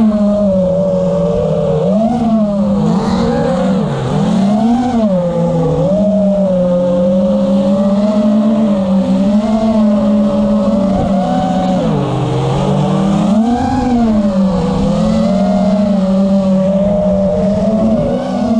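A 5-inch FPV quadcopter's brushless motors and tri-blade propellers buzzing in flight, the pitch wavering up and down as the throttle changes.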